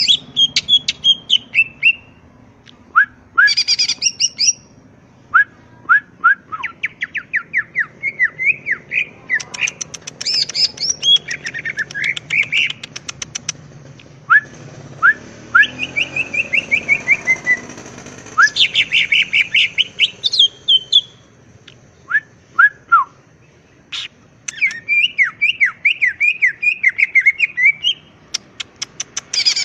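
Green leafbird (cucak ijo) singing vigorously: phrases of rapid, sharp chirps and whistled notes, each lasting one to three seconds, with short pauses between them.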